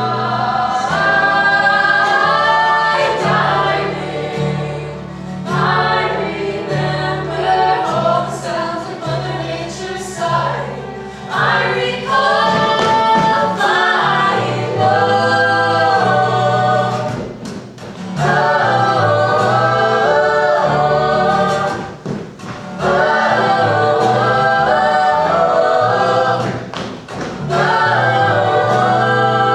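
Several voices singing together in harmony, in phrases a few seconds long with short breaks between, over a sustained low part.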